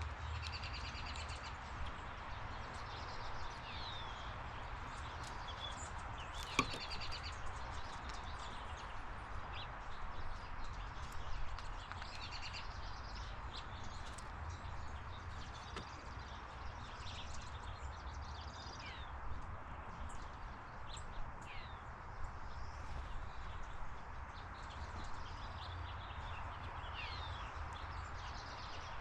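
Several birds chirping and calling on and off over steady outdoor background noise, with one sharp click about six and a half seconds in.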